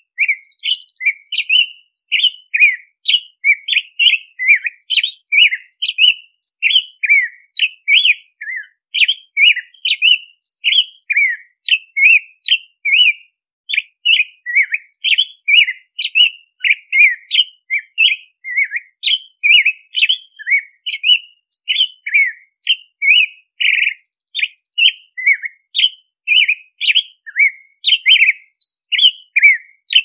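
American robin singing: an unbroken stream of short, clear whistled notes, about two or three a second, each note sliding slightly in pitch.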